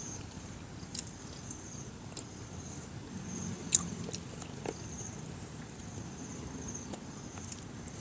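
Close chewing and mouth sounds of a man eating fish with his hands, with a few small sharp smacks, the loudest a little under four seconds in.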